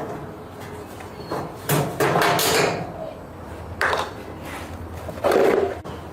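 Three bouts of knocking and clatter from hard parts and tools being handled during a washing machine repair: a knock with a short rattle about two seconds in, a single knock near the middle, and the loudest clatter near the end.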